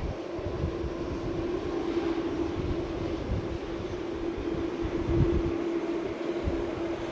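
Jet airliner engines at takeoff power: a steady rushing noise with one held tone running through it, and wind thumping on the microphone.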